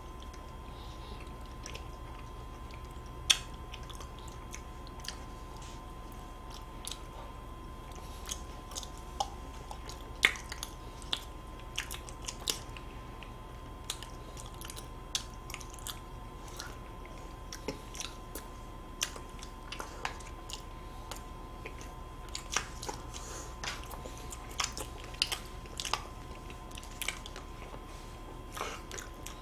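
Close-miked chewing and biting of Cookie-O ice cream sandwiches, soft chocolate wafers around ice cream, as short wet clicks and smacks scattered all through, with some handling of the paper wrapper. A faint steady tone and low hum sit underneath.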